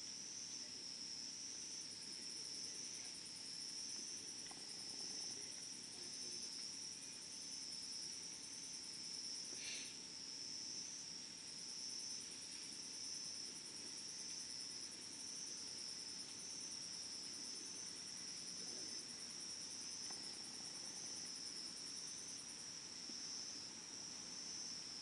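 Crickets chirring in a steady, high, faint trill, with a second, higher pulsing trill that drops out for a moment about ten seconds in and stops near the end. A single faint click sounds about ten seconds in.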